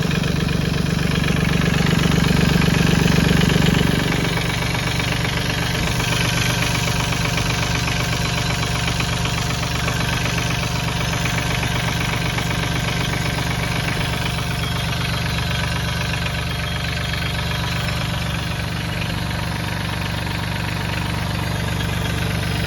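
Mahindra 1626 tractor's diesel engine running cold, having been started without working glow plugs. It runs faster and louder for about the first four seconds, then drops back and settles to a steady idle.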